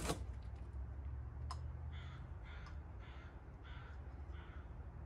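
A bird calling five times in a row, the calls starting about two seconds in and evenly spaced, over a low steady hum; a sharp click at the very start and another about a second and a half in.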